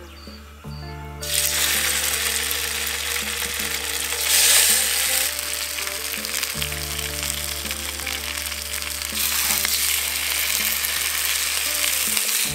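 Mielie meal (pap) fingers sizzling as they are laid into hot canola oil in a frying pan. The sizzle starts about a second in and swells louder as more pieces go in, around four seconds and again around nine. Background music plays underneath.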